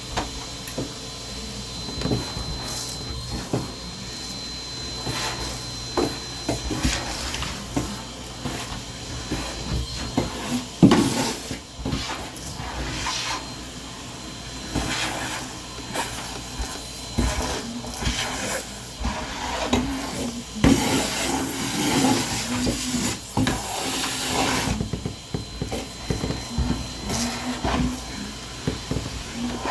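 Irregular knocks, rubbing and rustling of household items being handled and moved, with no steady vacuum running, busiest about a third of the way in and again in the second half.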